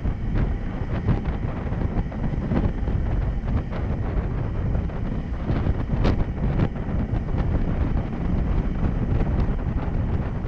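Wind rushing over a GoPro's microphone on a moving Honda 125 cc motorcycle, with the bike's engine and road noise underneath. There is one sharp tick about six seconds in.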